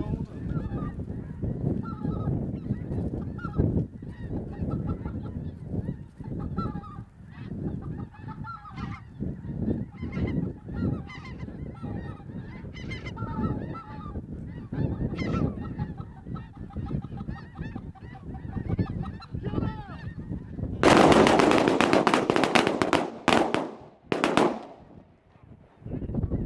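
A large flock of snow geese and specklebelly (white-fronted) geese calling, many overlapping honks and yelps in a constant chatter. About twenty seconds in, a loud burst of rushing noise lasting about two seconds, followed by a few sharp cracks.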